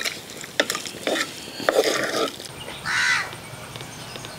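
A bird calling three times, short calls about a second apart, with a few sharp clicks in between.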